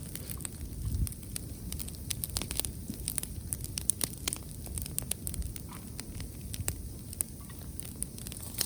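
Wood bonfire crackling, with many irregular sharp pops and snaps, over a low rumble of wind buffeting the microphone.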